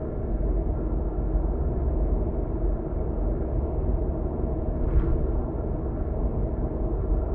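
Steady low road and engine rumble of a car travelling at speed, heard from inside the cabin, with one brief click about five seconds in.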